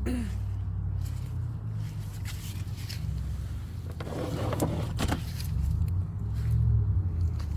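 Small pool-cover pump running, pumping rain water off the cover with a steady low hum. A brief scraping rustle about four seconds in.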